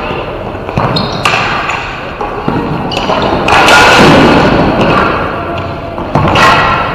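Ball hockey in play: the ball and sticks thud against the rink boards several times, each hit echoing, with players shouting.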